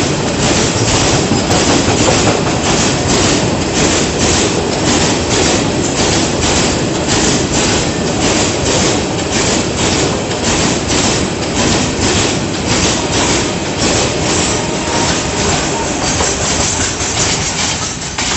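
Freight train of tank wagons rolling past close by: a steady clatter of steel wheels over the rail joints in an even rhythm of several clicks a second, easing slightly as the tail of the train goes by near the end.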